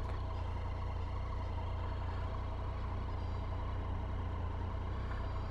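Triumph Tiger 800's three-cylinder engine running at a steady cruise, with a low, even rumble of wind and road noise, heard through a mic inside the rider's helmet.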